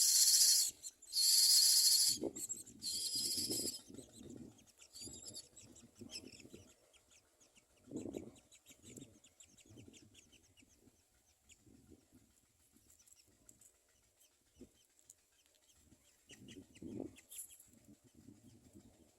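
Common myna nestlings begging in the nest: three loud, raspy hissing calls in the first four seconds, then softer low clucking sounds and rustling.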